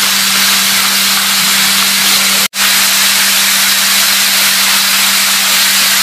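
Chicken pieces sizzling in a frying pan over high heat while being stirred with chopsticks, a loud steady hiss with a low hum under it. It cuts out for an instant about two and a half seconds in.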